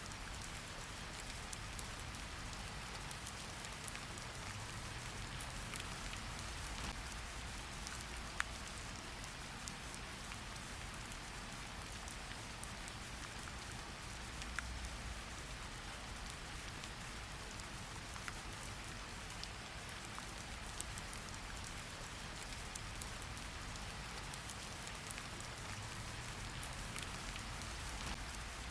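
Steady rain falling, with scattered individual drops ticking sharply against a surface over a low rumble.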